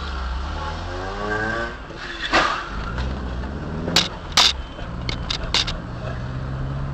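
Car engine running with a steady low hum, a pitched sound wavering up and down in the first two seconds, then a series of sharp knocks and bangs: one about two seconds in, two more about a second and a half later, and a quick cluster of clicks near the end.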